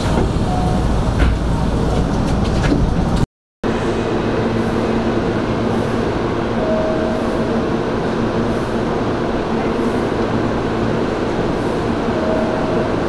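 Hanshin 5500 series electric train heard from the cab, with a low rumble and a few sharp clicks at first. The audio drops out for a moment about three seconds in, and after that a steady hum with several fixed tones continues.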